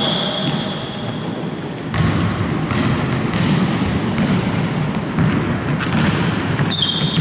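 Basketball being dribbled on a court: a run of bounces roughly once a second, starting about two seconds in.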